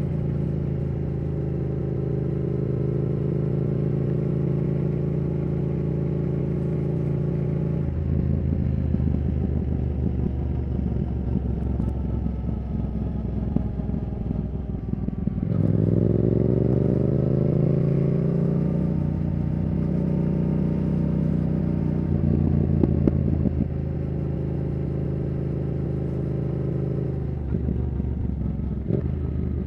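Yamaha R7's CP2 parallel-twin engine through a Yoshimura R77 exhaust, running steadily while riding. About halfway through, the revs climb with a rising pitch and the sound gets louder, then it settles into a steady note again.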